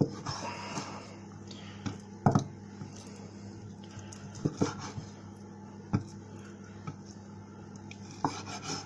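Scattered knocks and clinks of kitchen utensils and a chopping board being handled, about five sharp hits spread unevenly, over a low steady hum.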